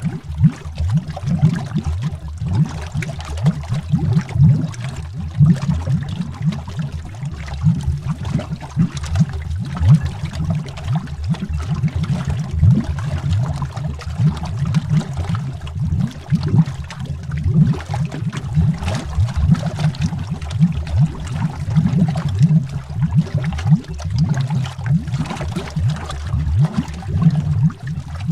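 Underwater bubbling: a dense, irregular stream of low, deep bubble pops and gurgles.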